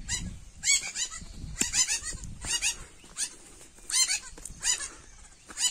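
An animal, most likely a bird, calling over and over in short, sharp, high-pitched calls that come singly and in quick runs of two or three. Wind rumbles on the microphone in the first second or two.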